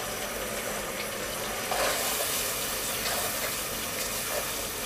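Onion-and-spice masala sizzling steadily in oil in a coated pot, its oil already separated from the masala. A wooden spatula scrapes and stirs it a few times in the second half.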